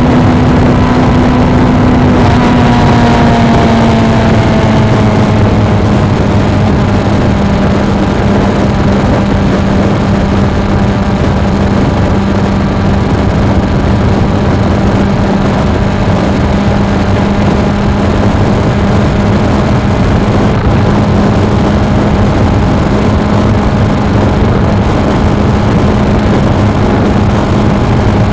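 Suzuki V-Strom 250's parallel-twin engine running at steady road speed under a constant rush of wind noise. The engine note drops slightly a few seconds in as the bike eases off, then holds steady.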